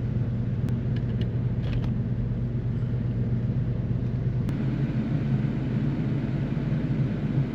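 Portable gas inverter generator running steadily, a continuous low hum as it powers the camper's retrofitted air conditioner. A few faint ticks sound in the first two seconds.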